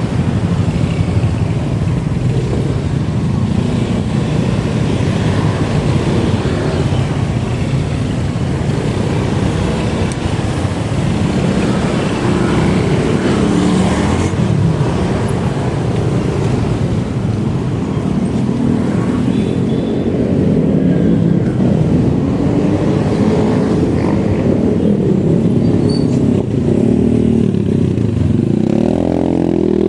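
Steady wind and road noise on the microphone of a moving rider, with a vehicle engine whose pitch rises and falls, most plainly near the end.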